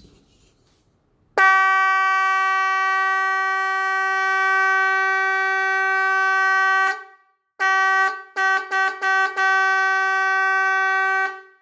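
12 V stainless-steel trumpet electric boat horn sounding one steady tone: a long blast of about five and a half seconds, then after a short pause a few quick toots running into a second long blast.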